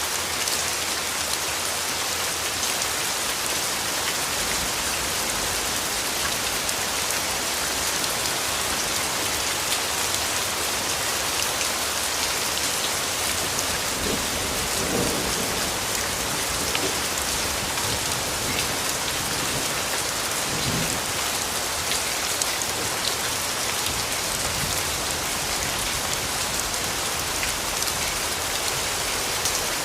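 Steady rainfall, a dense even patter of raindrops. Low rumbles of thunder swell up about halfway through and again a few seconds later.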